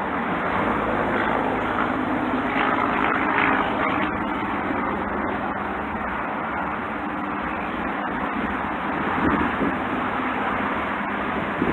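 Steady road traffic noise, an even hum and hiss of passing vehicles without a break.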